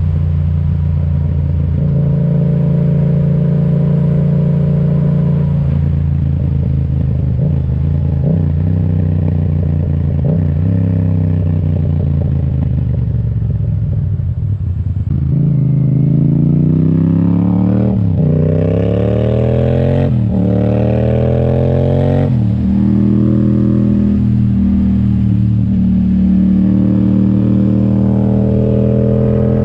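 Yamaha XSR700's parallel-twin engine through an Akrapovic exhaust, cruising at a steady pitch, then accelerating about halfway through with three rising pulls, each cut by a gear change. It then settles back to a steady cruise.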